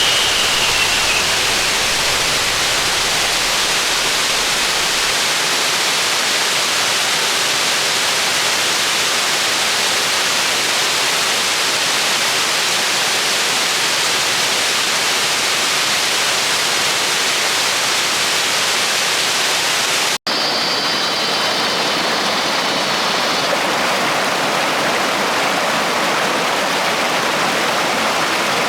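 A waterfall rushing steadily, a dense even roar of falling water. It cuts out for an instant about two-thirds of the way through and then continues.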